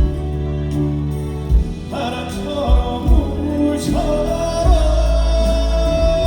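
Live slow ballad played by a band over loudspeakers, with a steady bass and regular drum beats. A melody line comes in with sliding notes, and from about three-quarters of the way through one note is held steadily.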